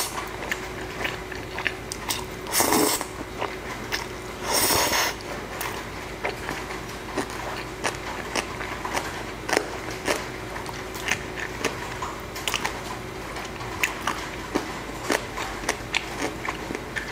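Close-miked eating of jjajangmyeon (black bean noodles): two short, louder slurps in the first five seconds, then chewing with many small wet mouth clicks. Steady rain hiss comes in through an open window underneath.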